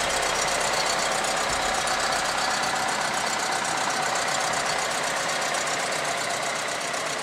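2011 Chevrolet Tornado's four-cylinder engine idling steadily, heard close up with the hood open.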